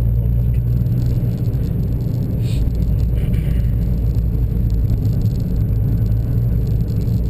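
Cabin sound of a 2011 Nissan GT-R rolling at low speed: a steady deep engine and road rumble, with no revving.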